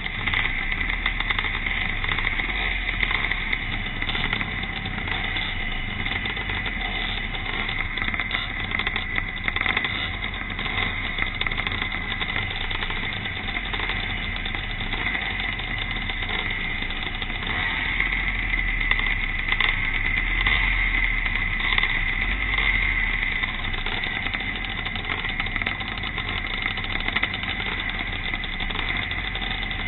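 Pre-65 vintage motocross motorcycles racing round the track, a steady mix of several engines running, swelling a little past the halfway point.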